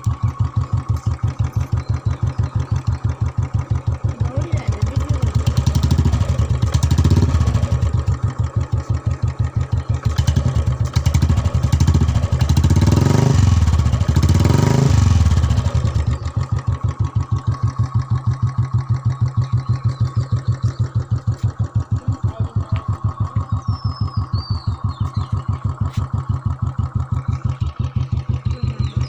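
Motorcycle engine idling with an even, steady thump, revved several times between about 5 and 16 seconds in, the pitch rising and falling with each rev, then settling back to a steady idle.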